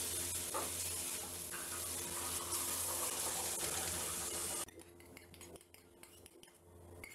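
Tomato sauce sizzling in hot oil in a wok while a spatula stirs it, as the sauce fries down until its moisture dries off and the oil rises to the surface. The sizzle cuts off suddenly about two-thirds of the way through, leaving a few faint clicks.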